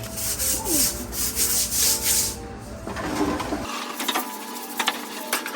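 Dishes being scrubbed with a soapy sponge in even back-and-forth strokes, about three a second. In the second half come short sharp clicks and clinks of dishware being handled.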